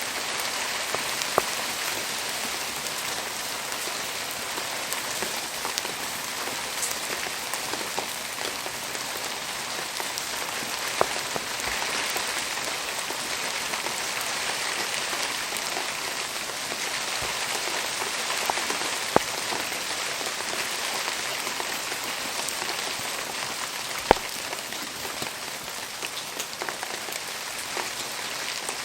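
Steady rain falling, an even hiss, with a few sharp pops scattered through it, the loudest about three-quarters of the way in.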